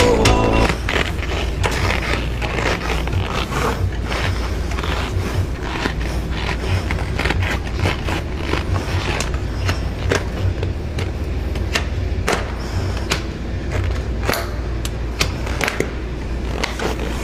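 Bicycle wheels rolling over a rough surface: a steady low rumble with many irregular clicks and knocks. A song cuts off about half a second in.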